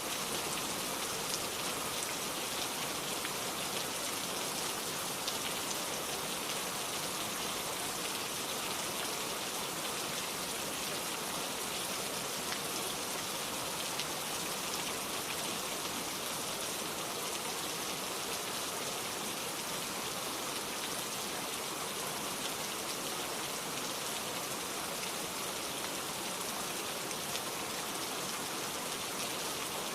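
Steady rainfall, with many small drops pattering on a surface and the odd louder drop.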